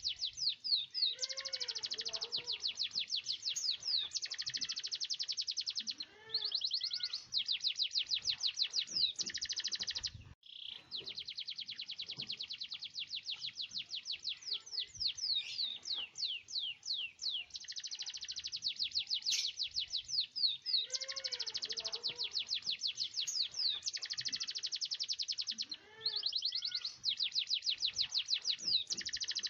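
Domestic canary singing in full song: long rolled trills of rapid, high-pitched repeated notes lasting several seconds each, with some sweeping notes and brief pauses between phrases.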